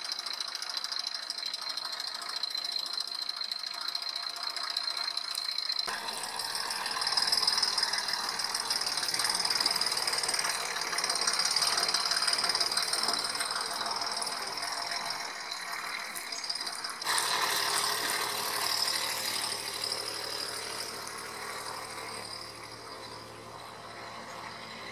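Hanomag Granit 500 tractor's diesel engine running with a rattling knock. The sound changes abruptly about six seconds in and again about seventeen seconds in.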